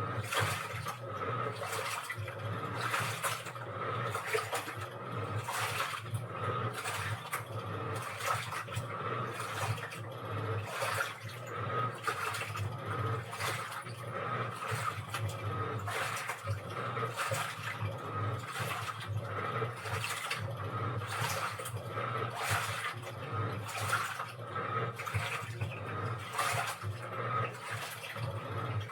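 Washing machine running, with water sloshing in the drum in repeated swishes over a steady motor hum.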